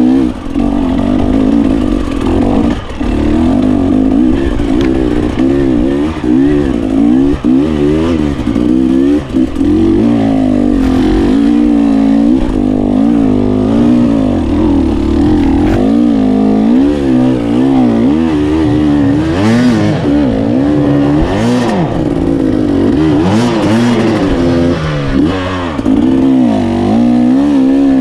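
GAS GAS 300 two-stroke enduro motorcycle engine being ridden, the revs rising and falling constantly as the throttle is worked. A few brief rushes of noise come in past the middle.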